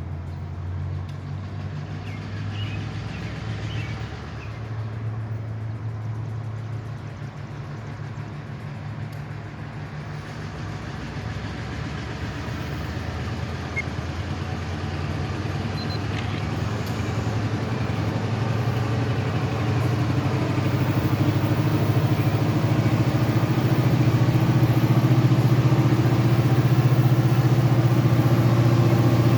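Diesel locomotive engine running with a steady low hum, growing steadily louder through the second half as it draws closer. A few faint bird chirps in the first seconds.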